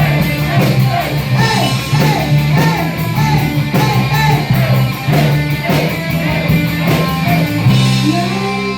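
Live rock band playing loudly, with electric guitar, bass and drums on a steady beat. A figure of short sliding notes repeats through the middle.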